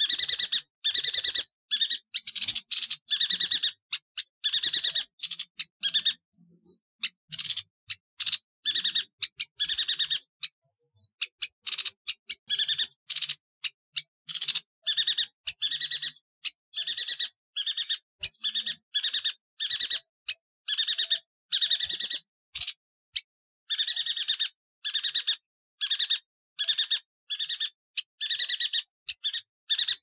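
Yuhina calling: short, sharp, high-pitched calls, each a rapid buzzy rattle, repeated about twice a second, with a looser run of shorter, scattered notes about a third of the way through.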